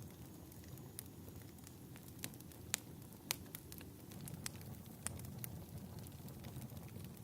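Fireplace crackling: a low, steady rumble of burning wood with scattered sharp pops, the two loudest close together a little before the middle.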